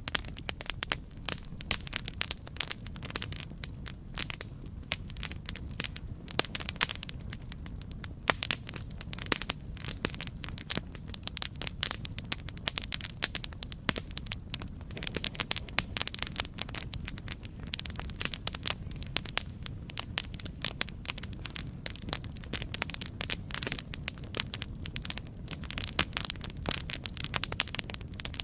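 Campfire burning, wood crackling and popping in a dense, irregular stream of sharp snaps over a steady low rumble of the flames.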